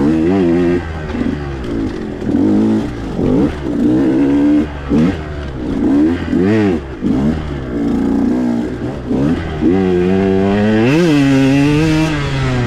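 2021 KTM 125 XC two-stroke dirt bike engine, rider on the throttle: it revs up and drops back again and again, with one long climb near the end as the engine comes on the pipe.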